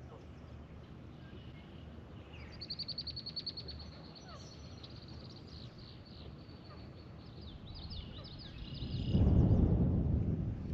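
Wild birds calling, with a rapid high trill about two and a half seconds in and scattered chirps after it. About nine seconds in a louder, low rushing noise starts and covers them.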